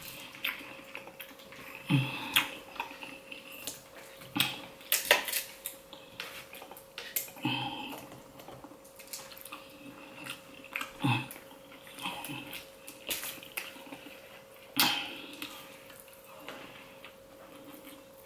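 Close-miked eating: chewing a mouthful of fried fish and oysters, with irregular wet mouth smacks and clicks every second or so. A faint steady hum runs underneath.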